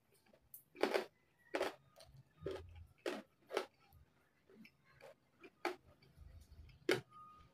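Close-miked chewing of crispy pata (deep-fried pork leg): about ten sharp crunches at irregular intervals, with a few soft low thuds of the mouth working.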